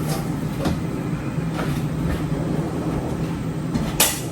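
Steady low hum with an even rushing noise, broken by a couple of faint clicks and one sharp knock near the end.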